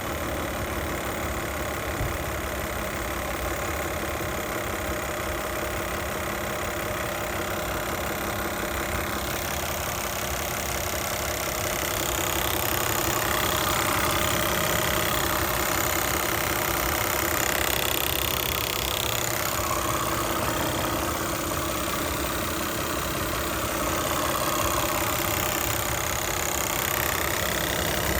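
Toyota 2GR-FE 3.5 L V6 idling warm, with a loud rapid ticking.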